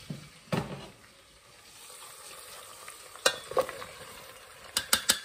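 Cabbage dropped into a pot of hot grease and starting to fry with a steady sizzle. A dull thump comes just after the start, and a utensil clicks sharply against the pot a few times in the second half.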